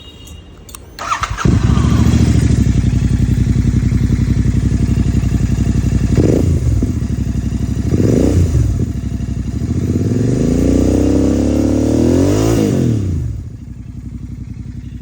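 Royal Enfield Continental GT 650 parallel-twin engine started with its exhaust's dB killer removed: the starter cranks about a second in, the engine catches and idles, takes two quick throttle blips, then one longer rev that rises and falls before it drops away near the end.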